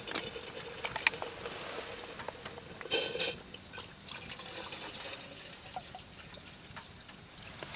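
Wood burning in a small tent wood stove, giving scattered sharp crackles, with a brief louder rushing hiss about three seconds in.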